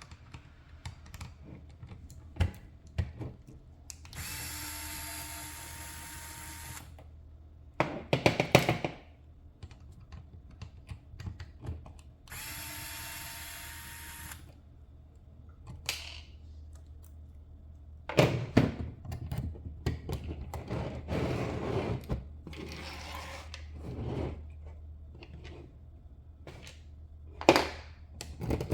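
Electric screwdriver running in two bursts of about two to three seconds each, backing out screws to take apart a small RC car, with clicks and rattles of plastic and metal parts being handled between and after the runs.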